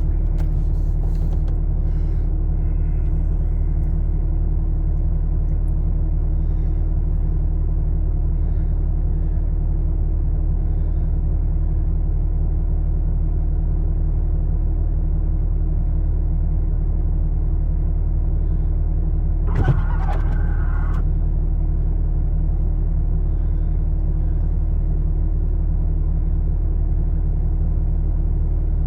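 Idling vehicle engine, a steady low hum with no change in pitch. About twenty seconds in there is a single knock, then a short higher tone lasting a second or so.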